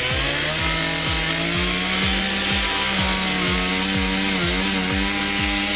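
Chainsaw running at high revs and cutting wood, its pitch dipping briefly about four and a half seconds in as it bogs under load. A steady bass-drum beat of background music runs beneath it.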